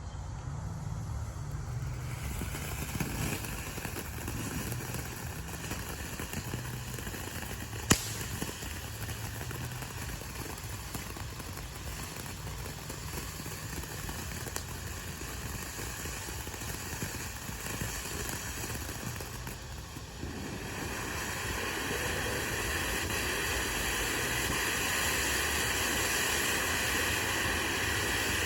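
Consumer ground fountain firework spraying sparks with a steady hiss. A single sharp pop comes about 8 seconds in, and about 20 seconds in the hiss turns louder and brighter.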